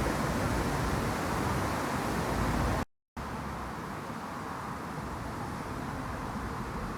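Steady, even rushing background noise with no distinct events, cut off by a brief dead-silent edit about three seconds in, then continuing a little quieter.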